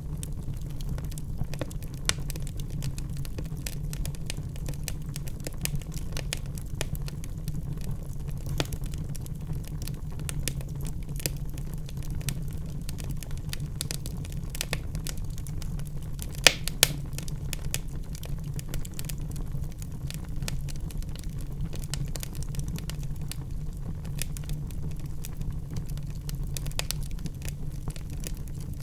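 Wood fire in a fireplace crackling, with irregular sharp pops over a steady low rumble; a couple of the loudest pops come about halfway through.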